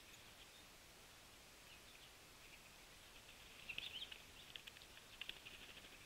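Faint high chirps and chip notes of small birds, coming in quick clusters in the second half.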